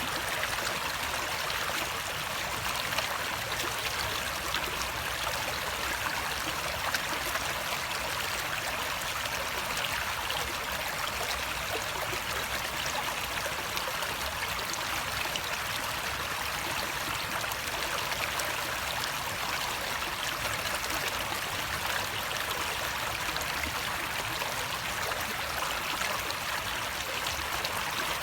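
Running water flowing in a steady, even rush with no breaks.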